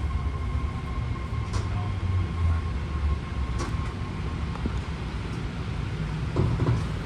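BART rapid-transit train pulling into a station: a steady low rumble of the wheels on the rails, with a thin steady whine above it and a couple of faint clicks.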